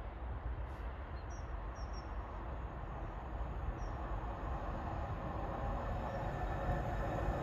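Distant rumble of an approaching train on the line, growing steadily louder.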